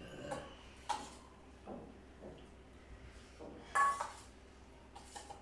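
Tableware clinking during a meal: a few scattered knocks and clinks of dishes and cutlery. The loudest comes about four seconds in and rings briefly.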